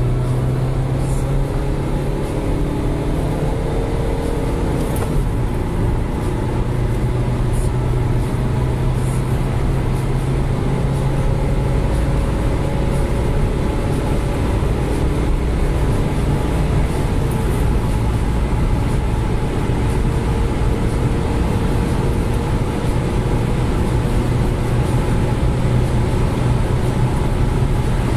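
Dacia Logan's 1.5 dCi four-cylinder turbodiesel, remapped to about 90 bhp, pulling hard under acceleration from low revs, its engine note climbing slowly over steady road and tyre noise.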